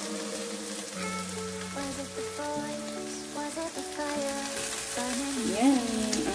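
Sliced bitter gourd with egg and onion sizzling in a frying pan as it is stir-fried with a spatula, under background music with held notes.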